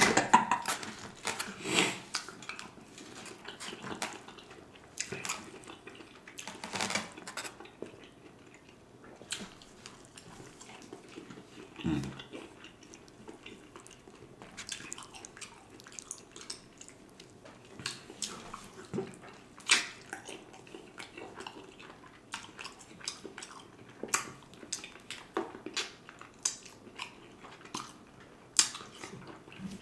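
Mouth sounds of a person eating soul food meat and sides with a fork and fingers: chewing and wet lip smacks, with scattered sharp smacks and clicks every second or few.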